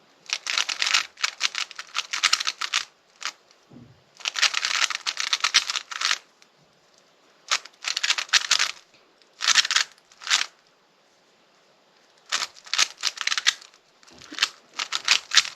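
A 3x3 Rubik's cube being turned quickly, a dense rattle of plastic clicks. The turning comes in eight or so spurts of up to two seconds, broken by short pauses.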